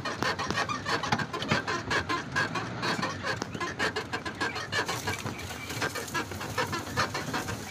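Birds calling in a rapid, continuous chatter of short notes.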